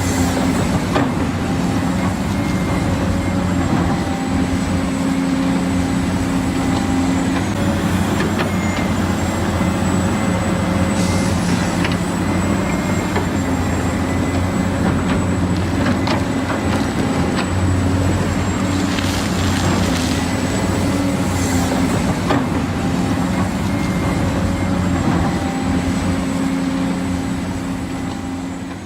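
Electric motors and plastic gearboxes of a remote-control toy construction vehicle whirring steadily, with a thin high whine over a low hum that shifts now and then as the motors change speed, and occasional small clicks and knocks.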